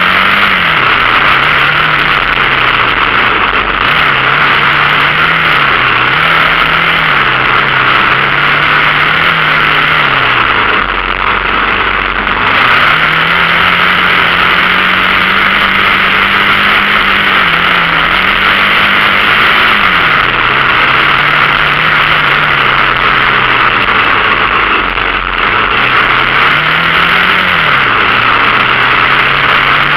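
Dirt bike engine running while being ridden, its pitch rising and falling as the throttle is opened and rolled off, over a steady rushing hiss. The engine drops off briefly twice, about a third of the way in and again later.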